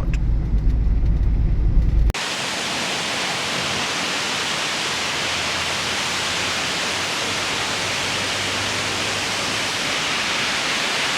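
A low vehicle rumble for about two seconds, cut off suddenly by the steady rushing of water cascading over the rock ledges of a waterfall, a hiss-like noise that stays even.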